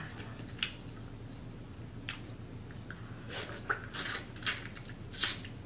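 Wet mouth clicks and smacks of close-miked eating, about seven short irregular sounds over a few seconds.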